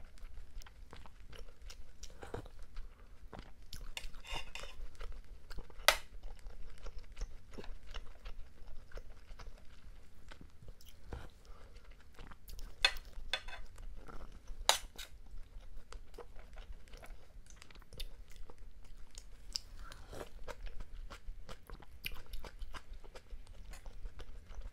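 Close-miked chewing and mouth sounds of a person eating fish roe stew from a spoon, irregular and wet. A few sharp, louder clicks stand out, about six, thirteen and fifteen seconds in.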